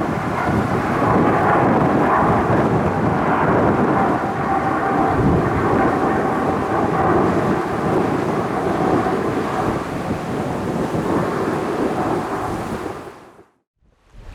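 A departing heavy jet airliner's engines: loud, steady jet noise with a faint whining tone, easing slightly before cutting off abruptly near the end.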